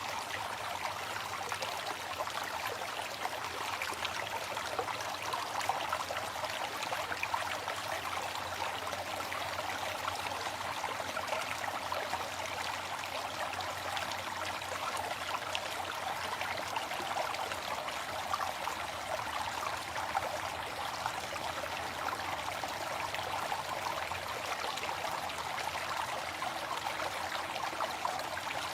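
Waterfall: a steady rush of falling water with a fine splashing texture.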